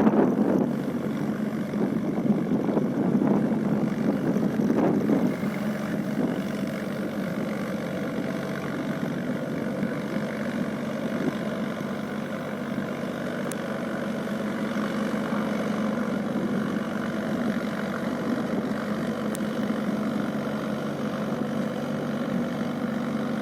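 Mahindra tractor's diesel engine running, louder and rougher for the first five seconds, then settling into a steady idle.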